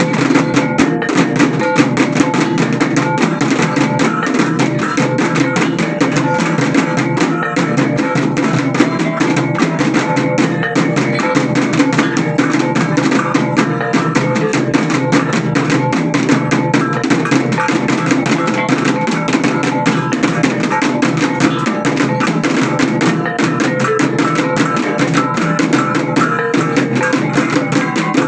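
Traditional percussion music: drums beaten in a fast, continuous rhythm, with some sustained tones above them.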